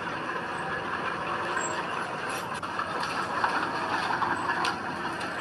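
Heavy diesel earth-moving machinery running steadily, with scattered metallic clanks and rattles.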